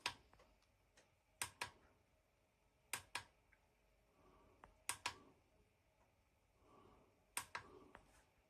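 A plastic push-button switch clicked five times, each press giving a quick double click as it goes down and comes back up, about every two seconds; this fits the lantern's single push button being pressed to step through its light modes.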